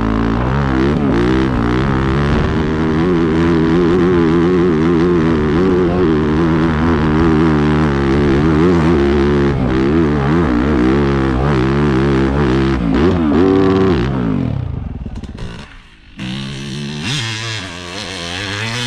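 Dirt bike engine revving hard under load on a hill climb, its pitch wavering quickly up and down as the throttle is worked. After about 14 seconds it falls away, and after a sudden break another, quieter engine sound follows.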